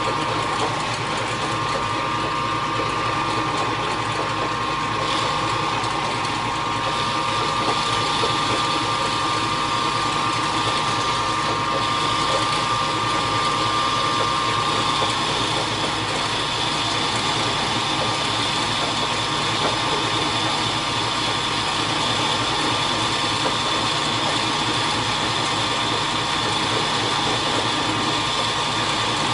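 Metalworking machine tool running steadily while cutting a hole in the steel feed plate, its motor and gearing giving a steady whine. A higher tone comes in about halfway through as the lower whine fades.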